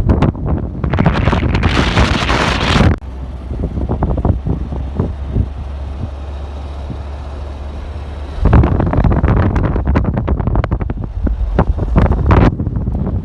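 Wind buffeting the microphone in heavy gusts with a low rumble. It eases to a steadier, quieter rush for several seconds in the middle, then the gusts return.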